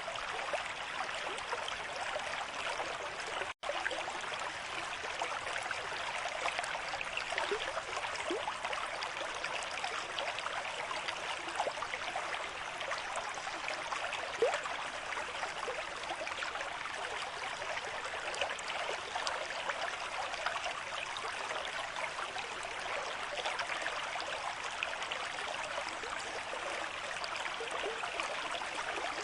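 River stream with a moderate flow, running steadily with a rushing, gurgling wash of water. About three and a half seconds in, the sound cuts out for a split second.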